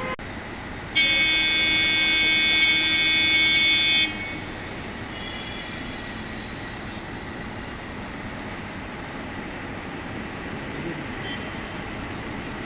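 A vehicle horn sounds in one steady blast of about three seconds, starting about a second in, over a steady hum of traffic.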